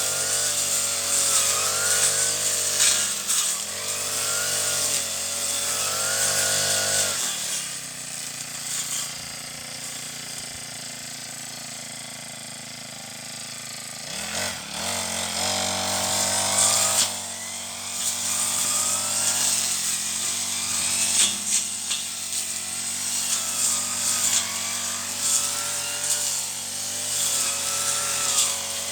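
Brush cutter engine running at high revs while cutting weeds, with a hiss from the spinning cutting head. It drops back to idle about 7 seconds in, then revs up again about 14 seconds in and keeps cutting.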